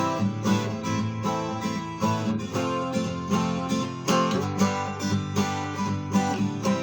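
Soviet Lunacharsky-factory 12-string acoustic guitar played, ringing chords picked at a steady pace of about two a second.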